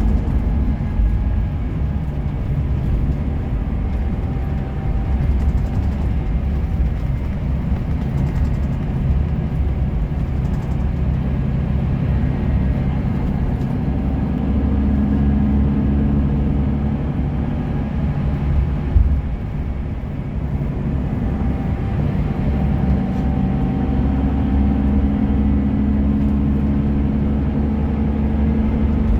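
Scania bus's diesel engine running on the road, its note rising and falling as it changes speed, with one short knock about two-thirds of the way through.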